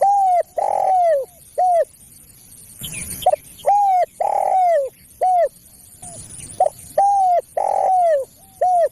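Spotted dove (tekukur) cooing, its phrase repeated three times, about every three seconds. Each phrase is four falling coo notes: a short one, two longer ones, then a short one.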